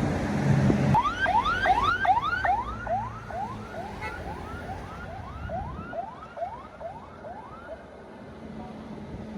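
A passing vehicle's siren-style horn sounding a rapid run of rising whoops, about two a second, fading away over several seconds. Engine rumble is heard for the first second.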